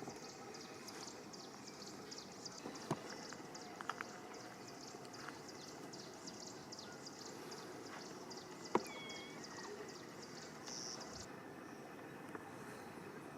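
Quiet outdoor ambience: a high chirring that pulses about four or five times a second, with a few sharp clicks, the loudest about nine seconds in, and a couple of short chirps.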